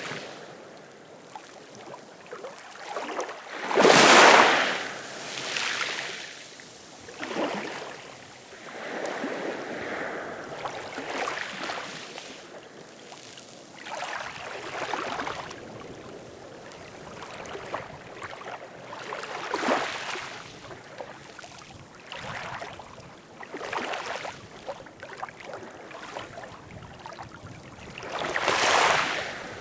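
Ocean waves breaking and washing in, in irregular surges every few seconds, the biggest about four seconds in and another near the end.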